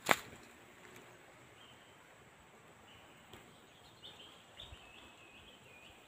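A sharp click right at the start, then faint, short, high bird chirps repeated from about a second and a half in until near the end.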